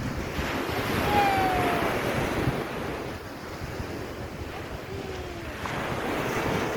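Waves washing onto a sandy beach, swelling about a second in and again near the end, with wind buffeting the microphone.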